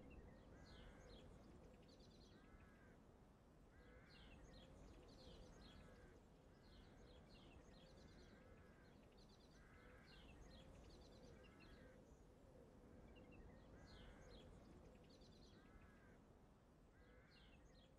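Faint outdoor ambience with birds calling over and over, about once a second, and higher chirps above them.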